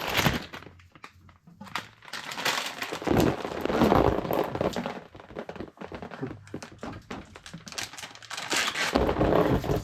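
Irregular crinkling and scraping handling noises, louder in two stretches: a longer one from about three seconds in and a shorter one near the end.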